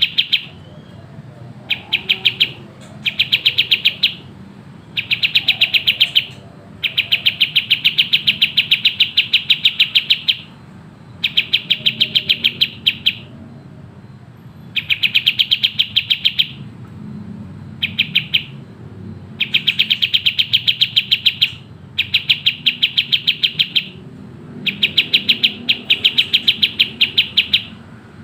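Kapas tembak songbird singing fast, tightly packed trills: runs of rapid, evenly repeated high notes lasting one to three seconds each, broken by short pauses, about ten runs in all.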